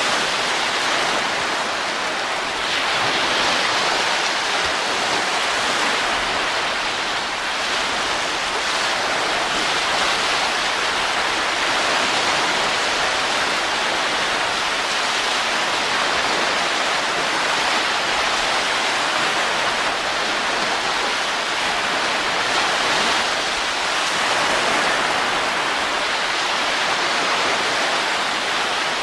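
Steady wind sound, a dense, even rush with only slight swells and dips in strength.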